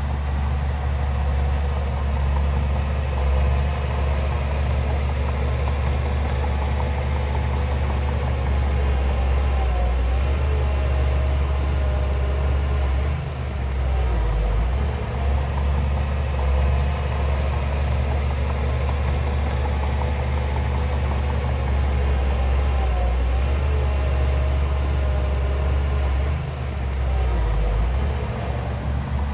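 Heavy diesel engine of earthmoving machinery running steadily with a deep rumble, easing off briefly about 13 seconds in and again near 26 seconds.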